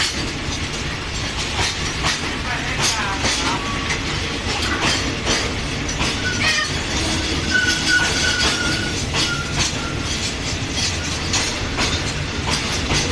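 Train running along the track: a steady low rumble with repeated clacks of the wheels over rail joints, and a faint high wheel squeal near the middle.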